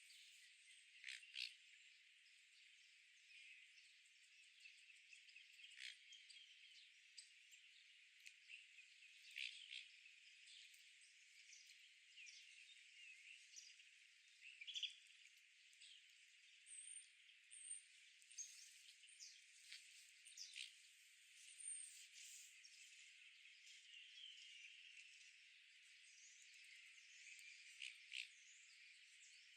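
Faint outdoor park ambience: scattered short bird chirps and light ticks over a steady high hiss, with a few brief high whistles midway through.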